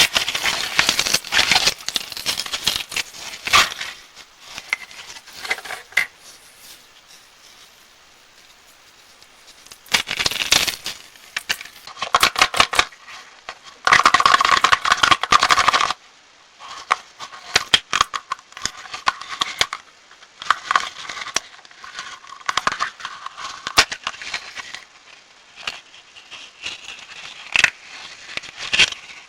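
Plastic candy wrappers crinkling and crackling as sweets are unwrapped. The sound comes in bursts with pauses, and the longest and loudest stretch is about halfway through.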